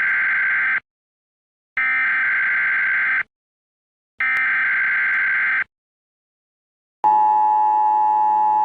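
Emergency Alert System tones: three short raspy data bursts about a second apart, then a steady two-tone attention signal that starts about seven seconds in.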